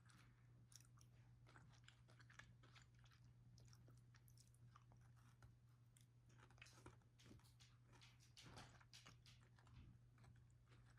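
Very faint chewing, a person eating, with small irregular crunching clicks over a steady low hum.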